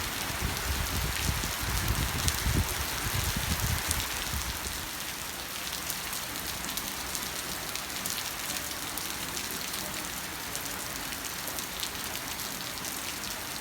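Heavy rain falling steadily on surfaces, a dense hiss with many separate drop ticks. A low rumble sits under it for the first few seconds, then fades.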